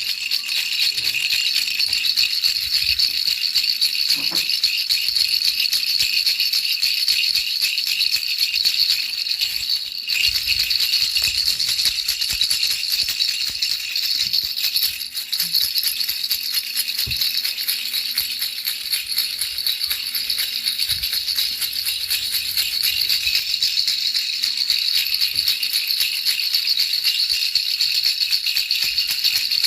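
Baby rattle shaken continuously, a dense, unbroken high rattling with no pauses, used as white noise to lull a baby to sleep.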